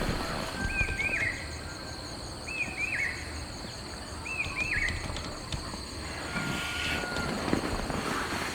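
A bird repeating a short two-note call three times, about every two seconds, over a steady high insect trill.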